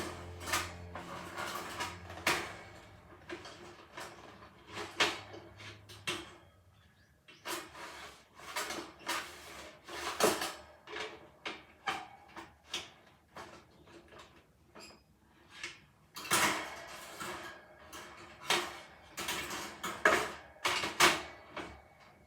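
Irregular clatter of small knocks and clicks, as of objects being handled and set down in a small room.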